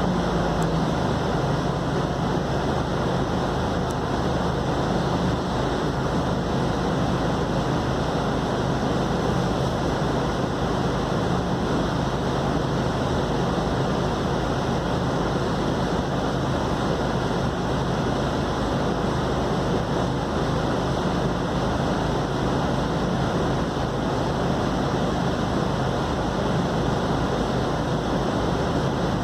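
Inside a Scania K280UD double-decker bus cruising steadily: a constant low engine drone under an even wash of road and tyre noise, with no gear changes or stops.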